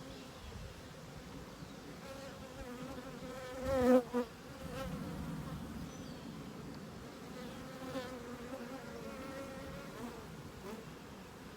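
Honeybees buzzing around an opened hive, a wavering drone that rises and falls as the bees fly past. One bee passes very close about four seconds in, giving a loud, brief swell of buzzing.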